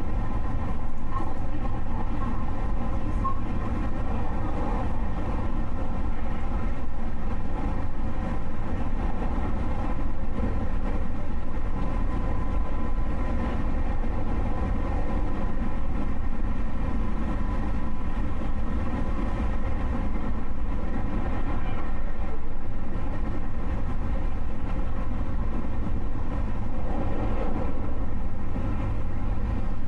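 JR Yamatoji Line train running, heard from inside the passenger carriage: a steady low rumble that holds even throughout.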